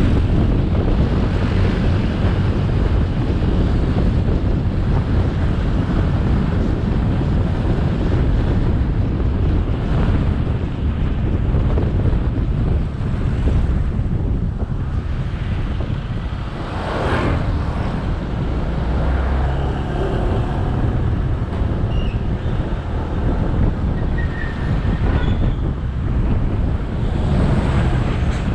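Motorbike riding along a road: steady wind rush on the microphone over the engine and tyre noise. A brief louder rush about two-thirds through.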